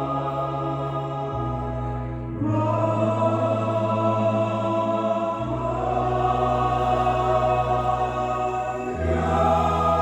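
Choir singing a church hymn in long held chords, the harmony moving to a new chord every few seconds.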